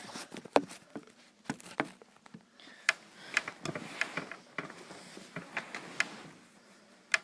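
Handling noise: irregular light clicks, taps and rustling as toys or objects are moved about by hand.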